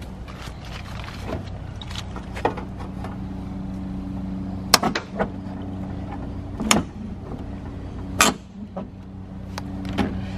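A steady motor hum with three sharp knocks spread through its middle.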